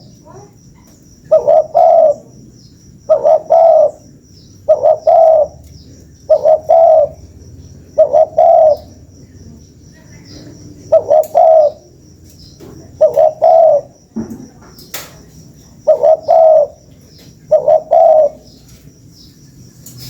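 Spotted dove cooing: a run of short two- to three-note coo phrases, repeated about every one and a half to two seconds, with a longer gap near the middle.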